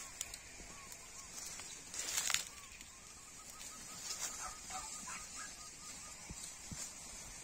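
Field ambience with a steady high hiss. A bird calls in a quick run of short repeated notes. About two seconds in there is a brief loud rustle of sugarcane leaves brushing against each other.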